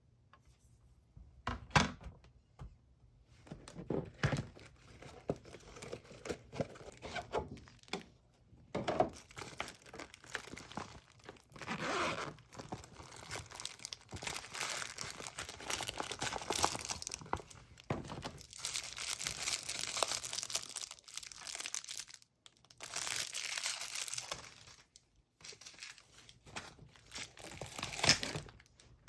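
Packaging being torn open and crinkled by hand: irregular rustling and tearing with short pauses and a few sharp knocks.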